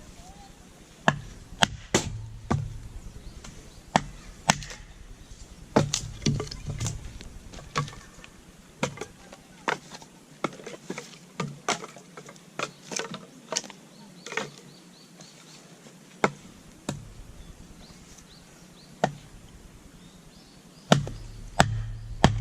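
Firewood being chopped and split: many sharp wooden knocks at an irregular pace, some hard strikes standing out above lighter taps.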